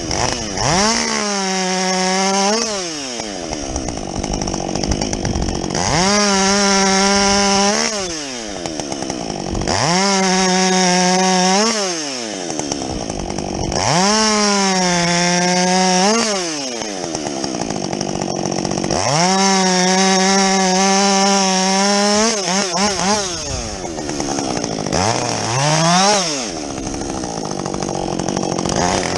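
Husqvarna 562XP two-stroke chainsaw with a modified muffler bucking a felled tree: about five cuts, each revving to full throttle and holding steady under load for two to three seconds, then dropping back to a lower pitch between cuts, with a few shorter throttle blips near the end.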